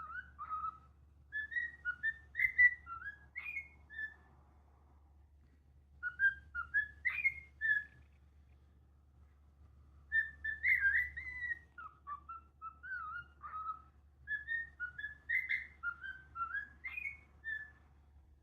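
Cockatiel whistling: four short phrases of quick, warbling whistled notes that jump up and down in pitch, with pauses of a second or two between them.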